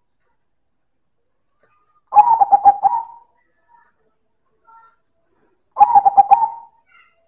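Zebra dove (perkutut) singing its loud cooing song twice: each phrase a quick, rolling run of coo notes lasting about a second, the first about two seconds in and the second near six seconds.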